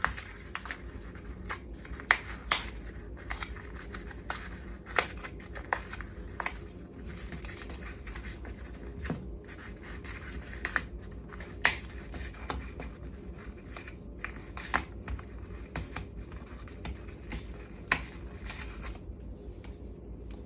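Moluccan cockatoo chewing and shredding dry material with its beak: a string of irregular crisp crackles and snaps, some louder than others.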